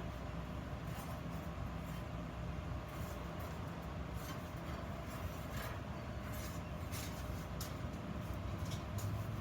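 Steady low machine hum with scattered light clicks and scrapes.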